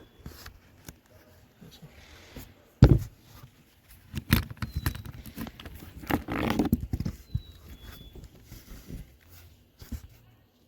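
A series of knocks and clatter from hands-on work, the loudest knock about three seconds in and a busier stretch of clatter around the middle.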